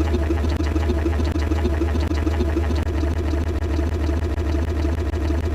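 A steady low mechanical drone with a fast, even flutter, of the kind an idling engine makes.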